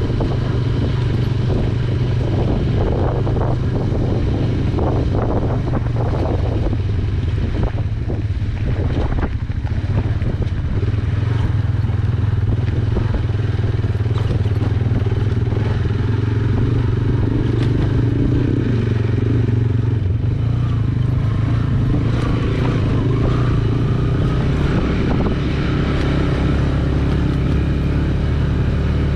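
Yamaha YBR125G motorcycle's single-cylinder engine running steadily while riding, with some rattle from the bike over the road in the first several seconds.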